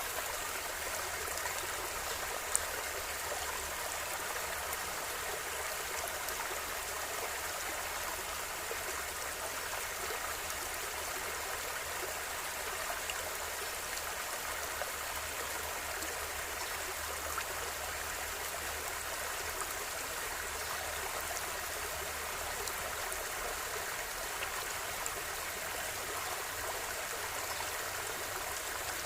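River water flowing steadily, a continuous splashing rush with small droplet clicks over it.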